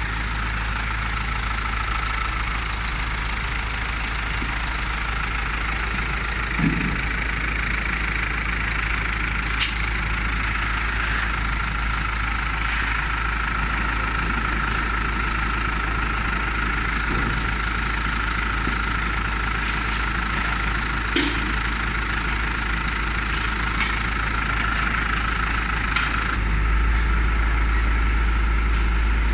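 A vehicle engine idling steadily, with a few sharp knocks over it. Near the end the engine rumble steps up and gets louder.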